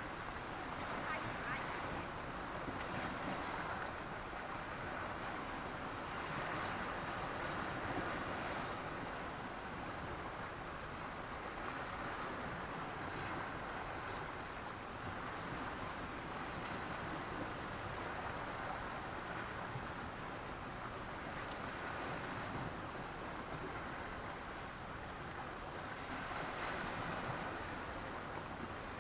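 Sea waves breaking and washing on a beach of black stones and sand, a continuous surf that swells and eases every few seconds.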